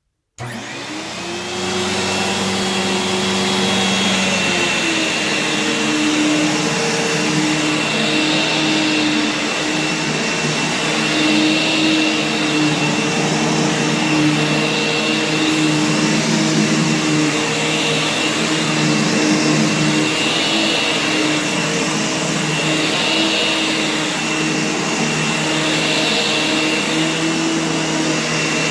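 Kenmore Whispertone two-motor upright vacuum switched on: it spins up over about a second and a half, then runs steadily with a high whine over a hum. A soft swell in the hiss comes about every three seconds.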